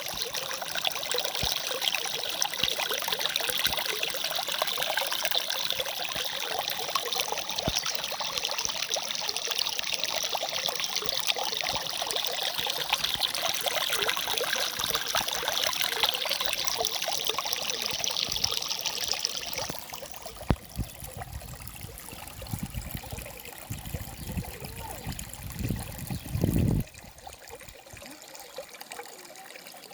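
Water of a boiling river bubbling and trickling steadily. It drops suddenly to a quieter level about twenty seconds in, with a few low rumbles near the end.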